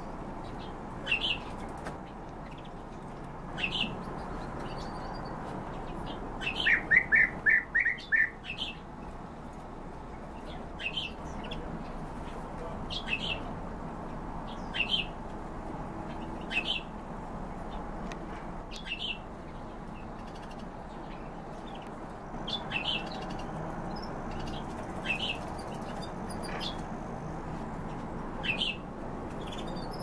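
Cage birds calling: short, sharp chirps about every two seconds, with a quick run of six loud notes about seven seconds in, over a steady background noise.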